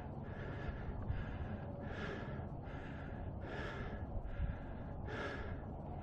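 A man breathing hard and rhythmically, a heavy breath roughly every second: out of breath from a steep climb.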